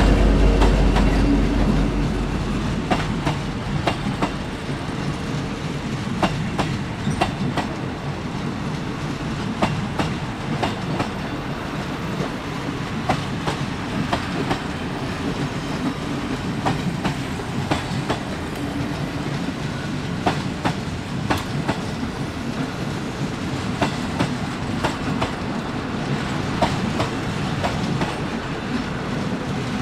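Diesel-hauled passenger train running on jointed track, its wheels clicking over the rail joints at a steady pace over a continuous rumble. A heavy low rumble fades away in the first two seconds.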